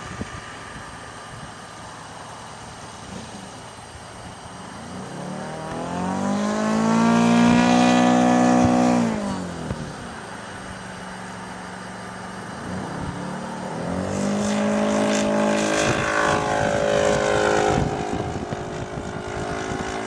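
Radio-controlled model airplane flying past twice, its motor and propeller rising in pitch as it comes in and falling away as it goes. The first pass, about six to nine seconds in, is the louder.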